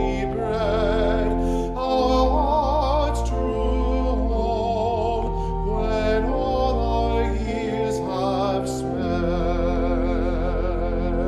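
Classical-style singing with a wide vibrato over held low accompanying notes, a hymn or anthem in progress.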